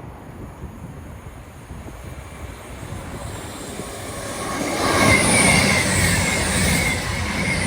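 Passenger train passing at speed: a rush of wheels on rail that swells from about three seconds in and is loudest at about five seconds, with a high whine riding over it.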